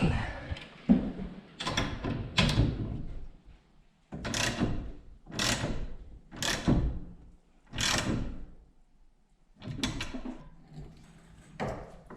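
Repeated rattling metal clanks from a garage door's torsion spring hardware and door as the spring is wound tighter by quarter turns and the door is worked. There are about ten separate bursts with short quiet gaps between them.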